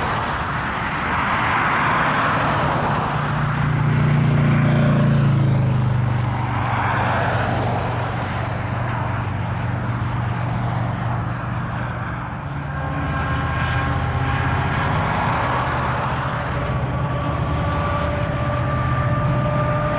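Diesel locomotives on a loaded BNSF coal train running, a steady low engine drone under a rushing noise that swells and fades. From about halfway through, thin high steady tones join in and slowly rise in pitch.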